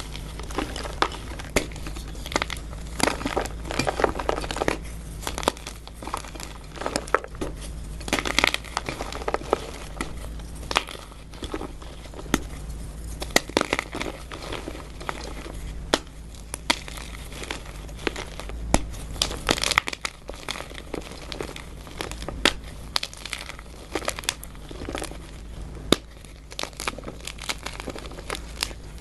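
Dyed gym chalk blocks being crushed and crumbled, a close run of irregular crunches and sharp crackles with powdery crumbling in between.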